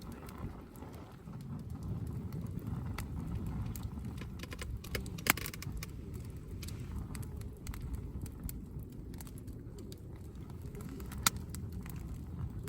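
Wood campfire crackling, with scattered sharp pops, the loudest about five seconds in and again near the end, over a low steady rumble.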